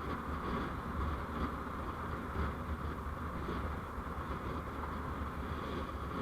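Steady rumble of a road vehicle in motion: engine and tyre noise with no distinct events.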